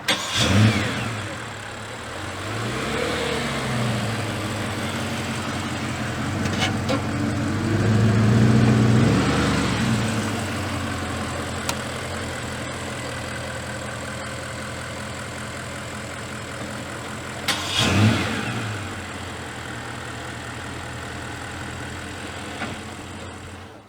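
Bentley Continental GT V8 S twin-turbo V8 through its optional sports exhaust, revved in short sharp blips and one longer rev, settling back to a steady idle between them. A quick blip opens, another comes about three seconds in, a longer rev around eight to ten seconds in, and a last sharp blip about eighteen seconds in.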